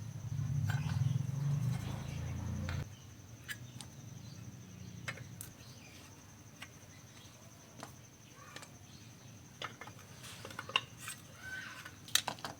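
Scattered small clicks and taps of tools and electronic parts being handled on the workbench, after a low hum that stops about three seconds in; a few faint bird chirps near the end.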